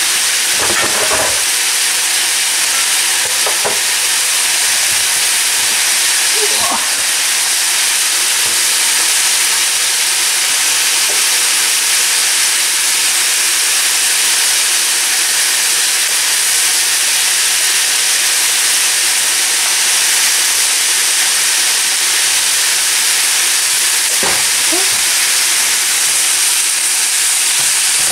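Beef, mushrooms and green peppers sizzling steadily in a nonstick skillet, stirred now and then with a silicone spatula that gives a few brief scrapes.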